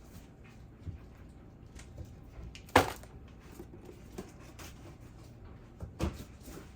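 Kitchen handling sounds: a few scattered clunks and knocks of things being set down or moved, with one sharp loud knock about three seconds in and another about six seconds in.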